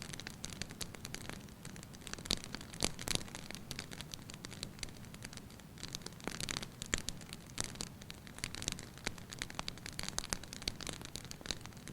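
Wood fire burning in a fireplace, crackling with irregular sharp pops and snaps over a soft steady hiss, the pops coming in denser clusters now and then.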